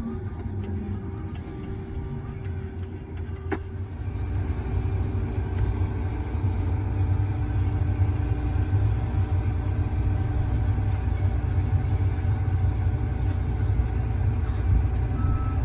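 John Deere combine's engine running steadily under a low rumble, with a single sharp click about three and a half seconds in; the engine grows somewhat louder about four seconds in.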